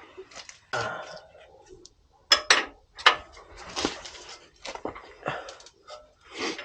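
Metal hand tools clinking and clattering as they are handled, with a few sharper knocks about two to three seconds in.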